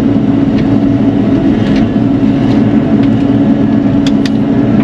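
Bobcat E42 mini excavator's diesel engine running steadily at working speed, with two short clicks about four seconds in.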